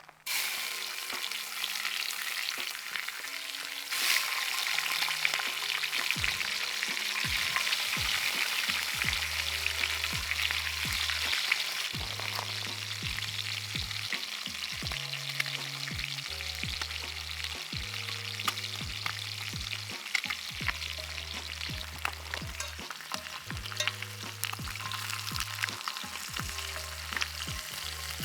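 Bluegill fillets sizzling and crackling in hot vegetable oil in a cast iron skillet, a continuous frying hiss with one sharp pop about four seconds in.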